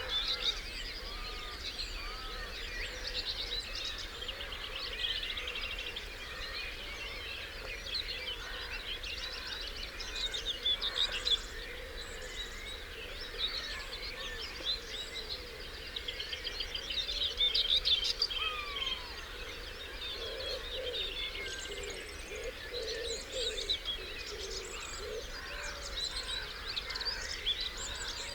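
Dawn chorus of many songbirds singing at once, with overlapping rapid trills, warbles and whistles, and some lower calls in the second half.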